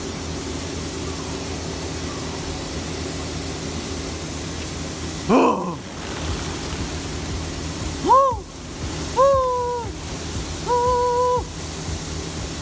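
Steady rushing noise, with four loud animal calls: one falling call about halfway through, then three shorter, rounded calls in the second half, the last one held a little longer.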